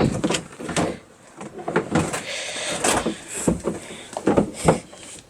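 Knocks, bumps and scraping of a cooler being pulled out of storage by hand, about half a dozen sharp knocks with a short rustle in the middle.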